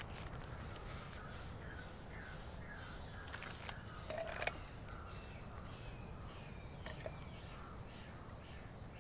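Forest ambience: a steady high insect drone under a bird calling over and over in short falling notes, with a few sharp clicks or snaps near the middle.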